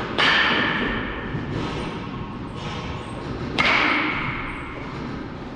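A baseball struck hard by a metal bat, twice, about three and a half seconds apart, each hit a sharp crack with a ringing tone that dies away over a second or so.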